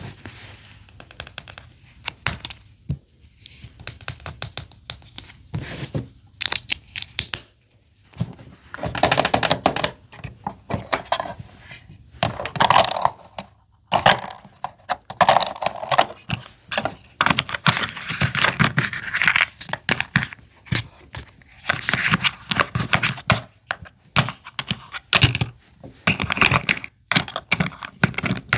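Plastic packaging being torn open and crinkled by hand, with many clicks and taps of small plastic items being handled.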